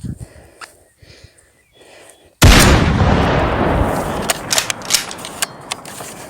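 A single sudden loud bang about two and a half seconds in, with a noisy tail that fades over several seconds and sharp clicks scattered through it. Quiet rustling and footsteps before it.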